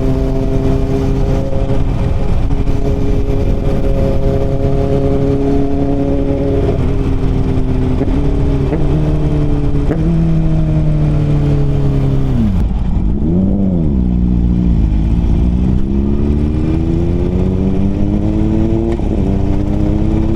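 Inline-four superbike with an aftermarket Akrapovič exhaust riding close by. Its note holds, then falls in steps through a few gear changes as it slows, wavers briefly, and rises steadily as it accelerates, with a shift near the end. Wind and road rush underneath.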